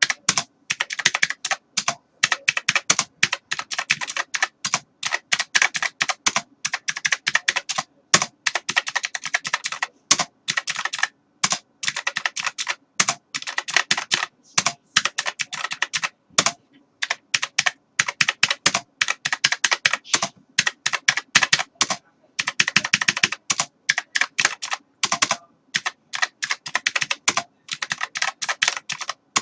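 Typing on a computer keyboard: rapid runs of key clicks in bursts, broken by short pauses.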